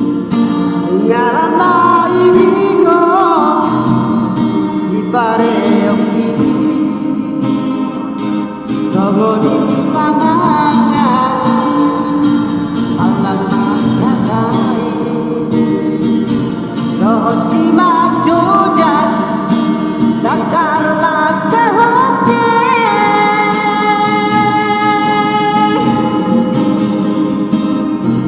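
A man singing a Batak song solo in long, held notes with sliding pitch, over acoustic guitar accompaniment.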